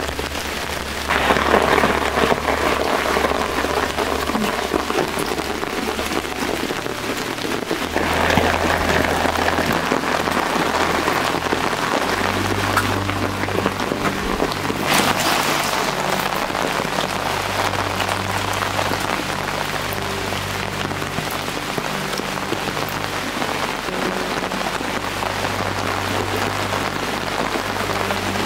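Steady rain falling, with a few heavier swells along the way.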